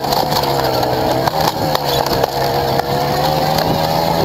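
An engine running at a fairly steady speed, its pitch wavering slightly up and down, under a constant hiss.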